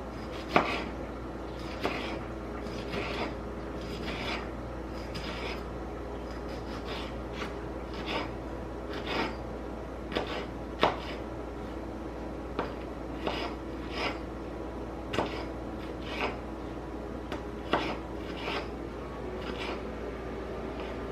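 Knife cutting vegetables on a cutting board: irregular strokes roughly once a second, with a few louder knocks of the blade on the board.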